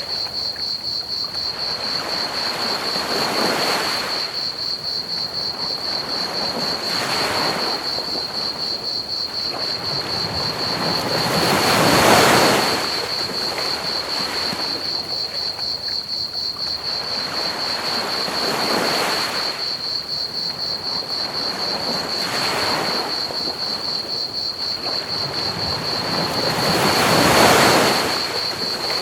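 Ocean waves breaking on a beach in slow surges every few seconds, the biggest about 12 and 27 seconds in, over a steady high trill of crickets chirping and a constant hiss of pink noise.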